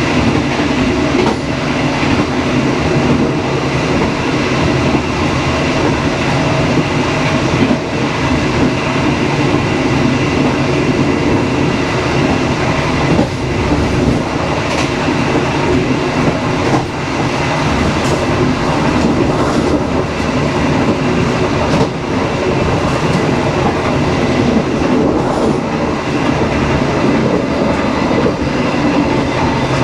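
Dharmawangsa passenger train running along the track: a steady rumble and hum of the moving train, with scattered sharp clacks of the wheels over rail joints.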